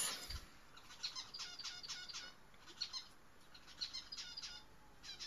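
Faint bird chirping: several short bursts of quick, high chirps.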